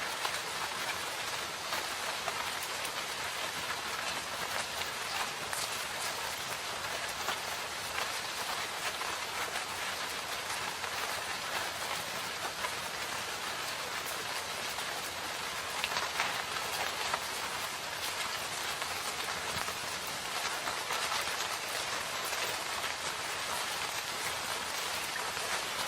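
Steady rain falling in a forest, an even hiss with many individual drops pattering on leaves and surfaces.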